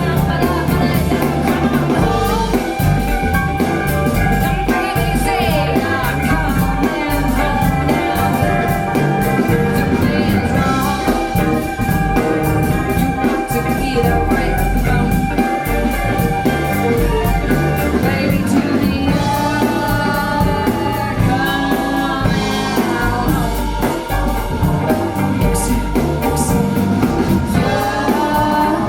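A song with a band, drums and vocals, played back through Wharfedale Linton Heritage loudspeakers.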